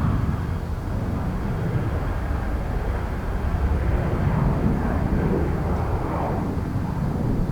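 Jet airliner engines heard as a steady rumble with slow swells in level.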